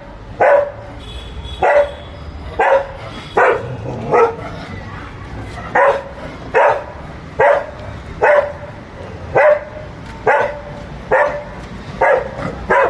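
Labrador dog barking repeatedly, about one bark a second, with a short pause partway through.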